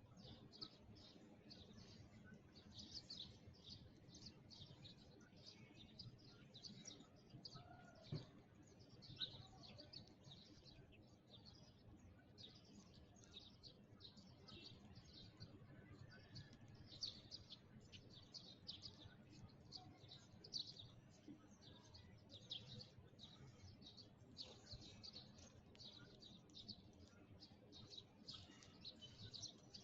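Sparrows chirping continuously, many short overlapping chirps from several birds at once.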